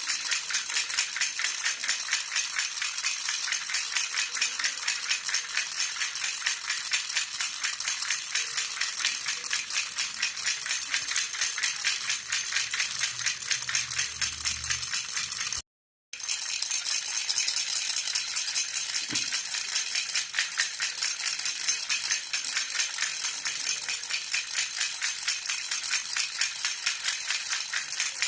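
Jhunjhuna (baby rattle) shaken rapidly and continuously, a dense bright jingling. About 16 s in it cuts out briefly, then resumes.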